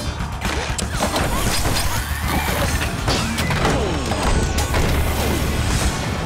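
Cartoon slapstick sound effects: a busy jumble of crashes and knocks with gliding squeals, over background music.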